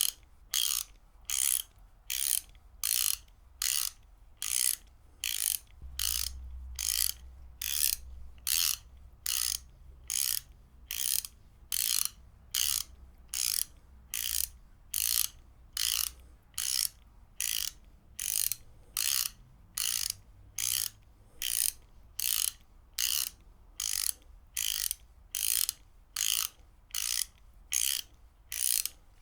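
Ratchet wrench worked back and forth in a steady rhythm, each stroke giving a short burst of ratcheting clicks, a little more than one burst a second.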